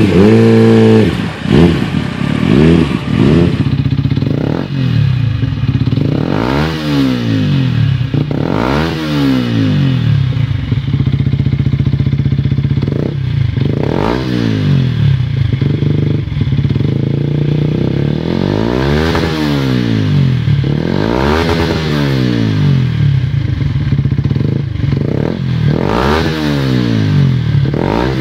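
Motorcycle engine revved over and over: quick throttle blips that rise and fall in pitch every two seconds or so, dropping back to a steady idle between them.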